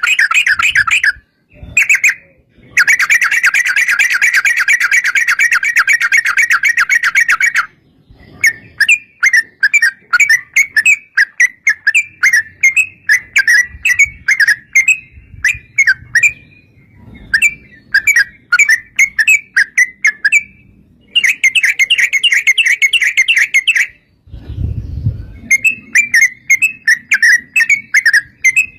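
Yellow-vented bulbul song: long rapid chattering trills alternating with strings of quick, separate bubbly notes.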